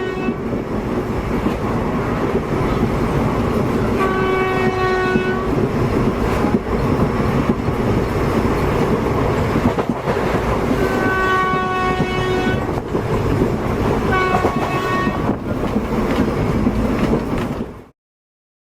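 Train running with a steady rumble and clatter, its horn sounding three times (about four, eleven and fourteen seconds in), each blast lasting over a second. The sound cuts off abruptly near the end.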